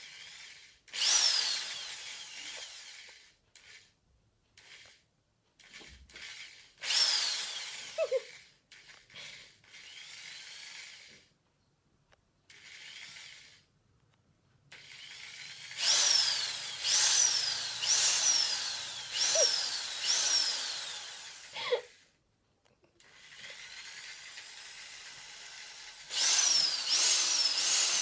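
Electric drill run in repeated bursts, its motor whining up and then falling in pitch each time the trigger is pulsed, with pauses of a few seconds between runs.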